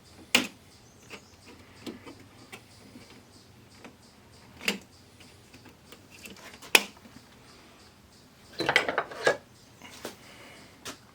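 Sharp plastic clicks and knocks a few seconds apart, with a short clattering run near the end, as an LCD TV's plastic bezel is worked loose at its clips.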